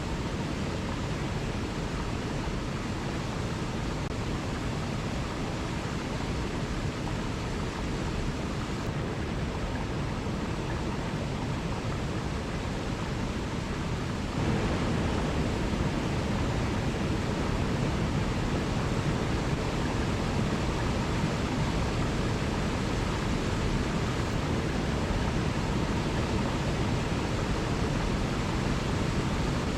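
Waterfall water rushing, a steady even noise with no separate splashes or other events; about halfway through it abruptly steps up to a louder level.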